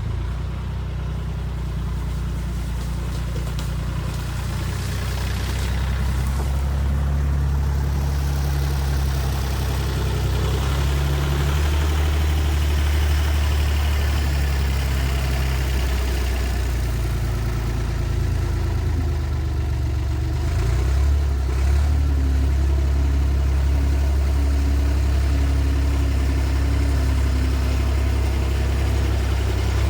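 Diesel engine of a piece of heavy equipment, a backhoe or dozer, running steadily at low speed. Its pitch shifts a little a few times.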